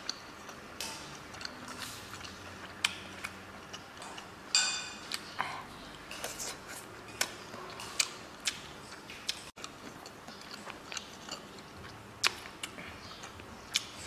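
A person eating close to the microphone: chewing with many wet mouth clicks and smacks scattered through, and a louder noisy burst about four and a half seconds in.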